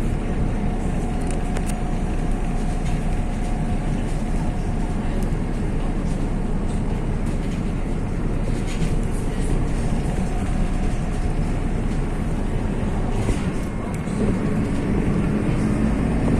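A MAZ-103 city bus on the move, heard from inside: a steady rumble of engine and road noise with a faint whine. About two seconds before the end the engine note climbs as the bus accelerates.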